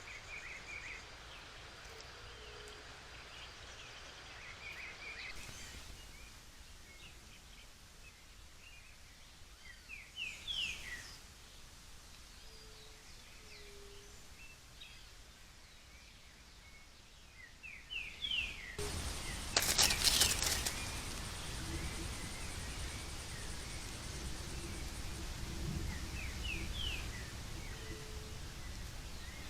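Outdoor forest ambience with short bird chirps coming in small clusters several times. About two-thirds through, a loud crackling burst lasts about two seconds, followed by a steadier, louder background hiss.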